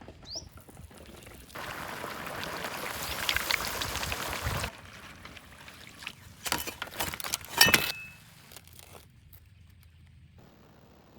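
Liquid pouring steadily for about three seconds, then a few sharp knocks and clatters, the loudest a little under eight seconds in.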